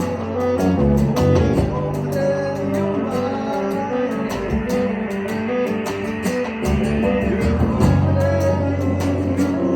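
Live band music led by guitar, with sustained notes and a slow rising and falling glide in the middle.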